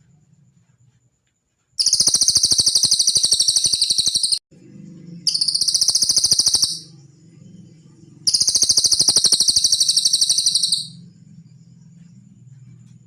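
Cililin bird song used as a masteran tutoring recording: three bursts of very rapid, high-pitched trilling, each about one and a half to three seconds long, over a faint low hum.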